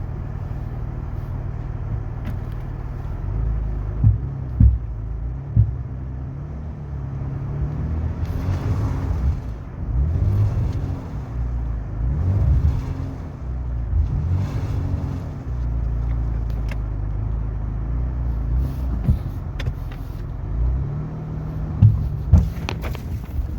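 Jeep Cherokee engine running in 4x4 low-traction mode and revving in several surges as it strains on a tow rope against a stuck tractor. A few sharp knocks come about four to six seconds in and again near the end.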